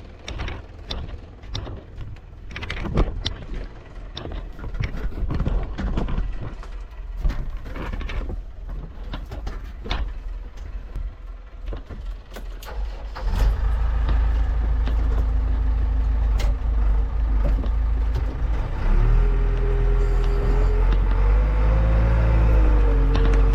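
Heavy diesel machinery at work, a JCB backhoe loader loading tractors: repeated clanks and knocks over a low engine rumble, then about halfway through the engine comes in much louder and runs steadily. A wavering tone joins in over the engine near the end.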